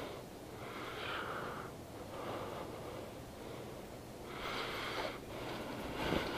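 A person breathing close to the microphone, two long breaths.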